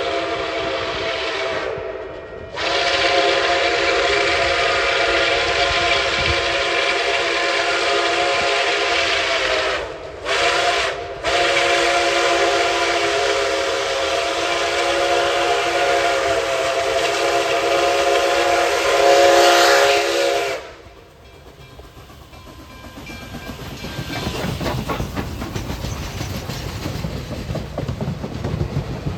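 Locomotive chime whistle sounding a chord in the grade-crossing pattern: long, long, short, long, the last blast held for about nine seconds. The train then rumbles past with rail clatter growing louder.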